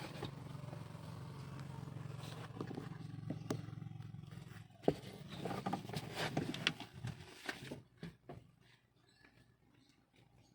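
A steady low motor-like hum for about four and a half seconds, then a run of sharp clicks and knocks of metal hand tools being handled as a wrench socket is swapped, ending in quiet about two seconds before the end.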